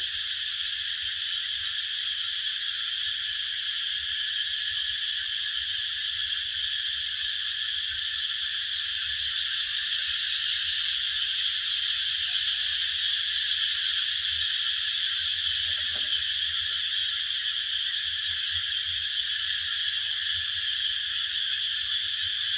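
A steady, dense chorus of high-pitched animal calls with no single song standing out, running evenly throughout.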